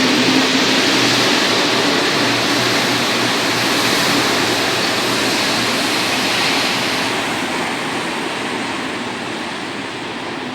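Rubber-tyred Santiago Metro Line 1 train running through the station: a loud, steady rush of noise with a faint hum at first, fading gradually over the last few seconds as the train moves away.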